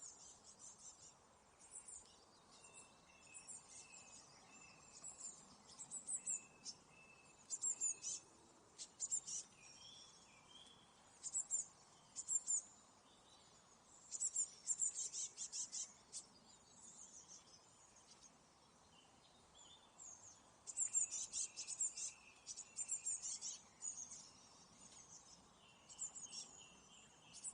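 Small songbirds chirping and calling, in short bursts of rapid high chirps every second or two over a faint outdoor background, with busier spells in the middle and near the end.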